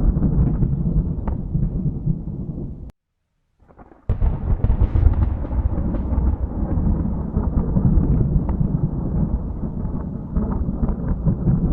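Rolling thunder: a deep, continuous rumble with crackling. About three seconds in it cuts out to silence for about a second, then a new clap breaks in sharply and rumbles on.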